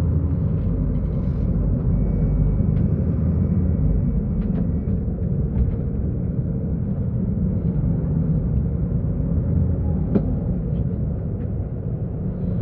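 Diesel engine of a Mercedes-Benz O-500U city bus running with a steady, even low rumble, with a few light clicks or rattles over it, the clearest about ten seconds in.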